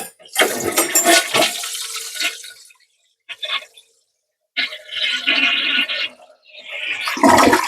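Toilet flushing: water rushing out of the tank and down through the bowl, heard as three separate stretches of rushing water with abrupt silent gaps between them. The first stretch, near the start, is the loudest.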